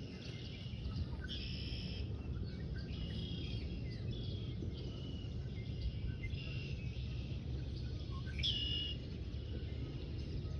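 Small birds chirping and singing in short repeated phrases over a steady low outdoor rumble, with one louder call about eight and a half seconds in.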